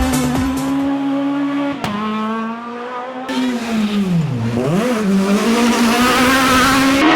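Rally car engine running at high revs. About four seconds in the revs drop sharply and then climb again, as when lifting off and braking before accelerating hard.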